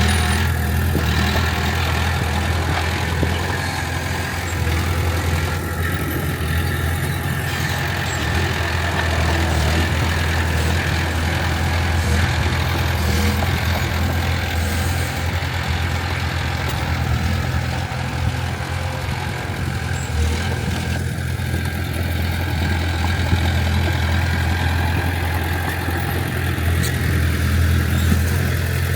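Heavy diesel engine of earthmoving machinery running steadily with an even low drone.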